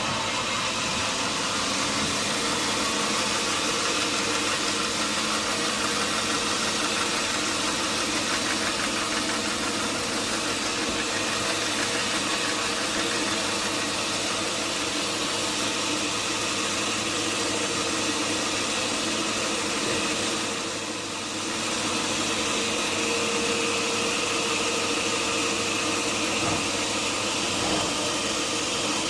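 Sawmill machinery running steadily: a continuous machine hum under dense noise, dipping briefly about two-thirds of the way through.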